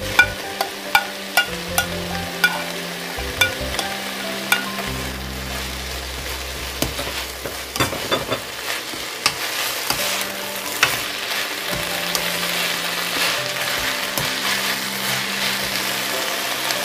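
Seaweed stems and vegetables sizzling as they are stir-fried in a nonstick frying pan, the sizzle growing fuller in the second half. A series of sharp taps sounds in the first few seconds.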